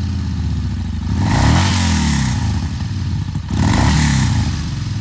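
Yamaha Bolt R-Spec's 942cc V-twin running just after starting, revved up and back down twice, about a second and a half in and again near four seconds in.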